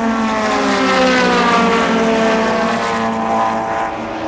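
Racing car engines running at speed, several engine notes at once, their pitch sliding down gradually as the cars pass.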